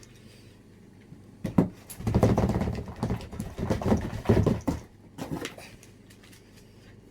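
A dog playing with a cardboard box, the cardboard rustling and scraping in a loud scuffle of about three seconds, then a short burst of the same.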